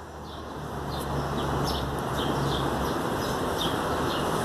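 A bird chirping over and over, short falling chirps about three a second, over steady outdoor background noise. A low hum under it stops about three seconds in.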